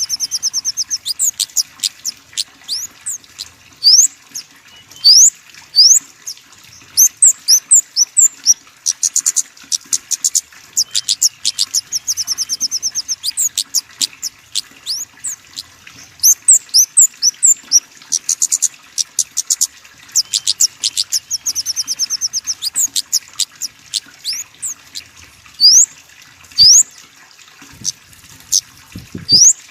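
A small songbird calling over and over in thin, very high-pitched notes: quick upward-sweeping chips mixed with short, fast trills.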